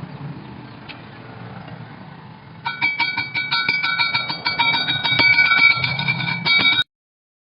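A low crackling hiss, then about 2.5 s in a fast, irregular run of sharp metallic knocks with steel ringing at several fixed pitches. It stops abruptly near the end.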